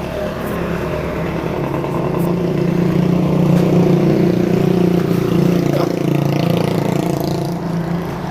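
A motor vehicle's engine running steadily close by, growing louder through the middle and easing near the end.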